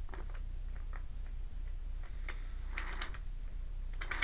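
Faint, irregular clicks and clacks of Thomas Wooden Railway toy trains being handled and moved on wooden track, over a low steady hum.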